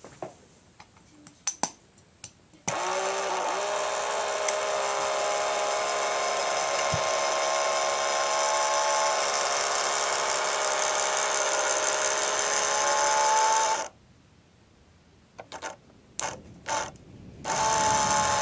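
Small electric motor of a model train running with a steady, high, multi-toned whine. It starts suddenly about three seconds in, cuts off abruptly near fourteen seconds, and starts again just before the end, with scattered clicks from handling in between.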